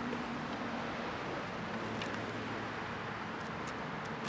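Steady outdoor background noise, a low hum under an even hiss, with a couple of faint light clicks, one about two seconds in and one near the end.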